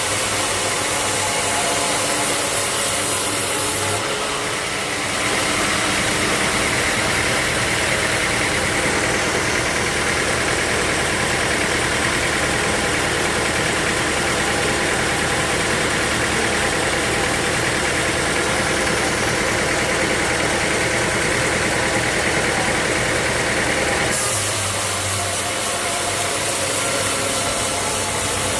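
Sawmill saw running steadily, its sound growing denser and harsher from about five seconds in until near the end as the blade cuts through a dry teak log, then dropping back to free running.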